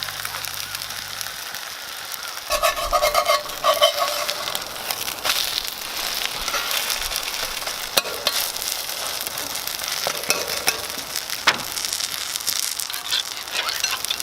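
Seafood pajeon (Korean green onion and squid pancake) frying in oil in a cast iron pan, with a steady sizzle. Several sharp clicks and brief metallic ringing scrapes of a utensil on the pan come through, mostly about three seconds in.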